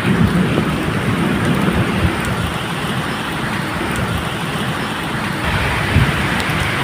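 Steady medium rain falling, with a low rumble of distant thunder underneath that swells near the start and again about six seconds in.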